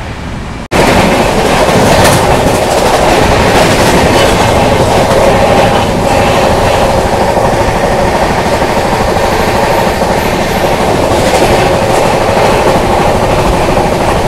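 Brindavan Express passenger train running at high speed, about 130 km/h: a loud, steady rush of wheel and rail noise that cuts in suddenly about a second in.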